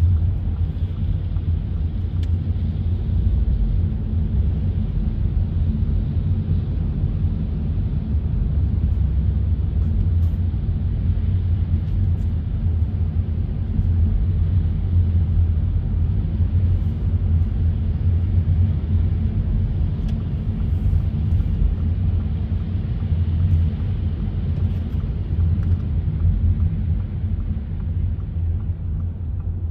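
Steady low rumble of a car driving, road and engine noise without pauses or changes.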